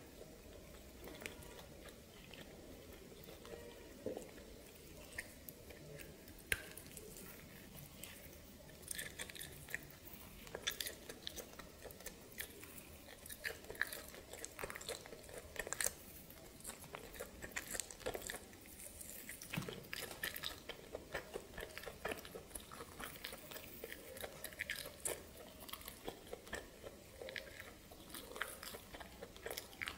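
Someone chewing and biting steamed snake meat, with frequent irregular crunches and short clicks.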